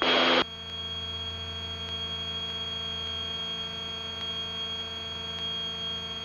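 Cockpit drone of a Grumman GA-7 Cougar's two engines in cruise, heard through the intercom as a steady hum with a steady high-pitched whine over it. A short burst of hiss at the very start.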